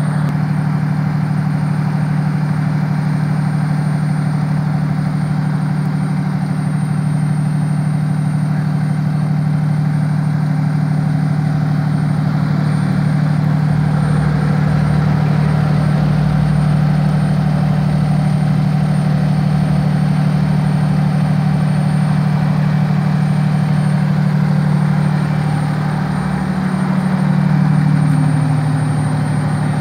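Fire department aerial ladder truck's diesel engine running steadily at a high idle. Near the end its speed dips briefly and then rises again.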